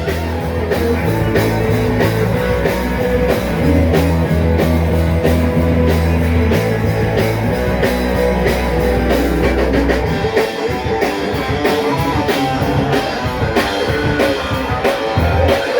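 A rock song in an instrumental stretch, with guitar, bass and a steady drum beat.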